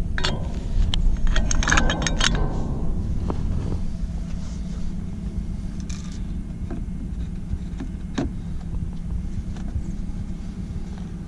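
A vehicle engine idling steadily, with a flurry of metallic clinks and rattles in the first three seconds and a few single clicks after.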